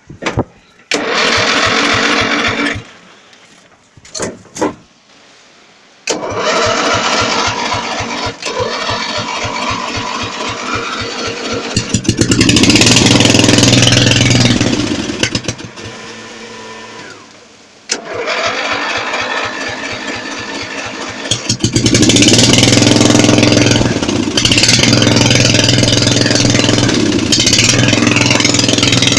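Small gasoline engine on a homemade tractor being cranked over with a fast even chatter, catching and running briefly about twelve seconds in, dying away, then being cranked again and catching about twenty-two seconds in, running on unevenly.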